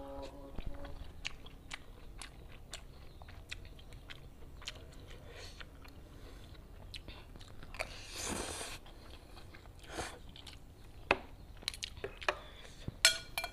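Close-miked chewing and wet mouth sounds of a person eating fried noodles and omelette with chili sambal, with a longer hissing sound about eight seconds in. Near the end, a few sharp clinks of a metal spoon and fork against the tray.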